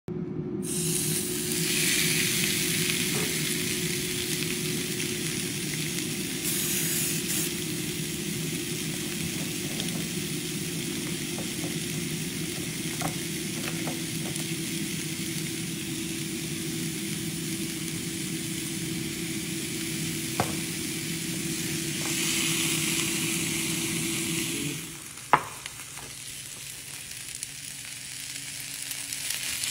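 Chicken breast sizzling on a hot waffle iron: a steady frying hiss with a low hum under it. About 25 seconds in the sizzle drops away, and a single sharp click follows.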